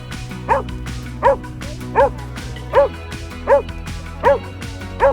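Golden retriever barking in a steady series, about one bark every three-quarters of a second, seven in all, each a short pitched bark that rises and falls. Background music plays underneath.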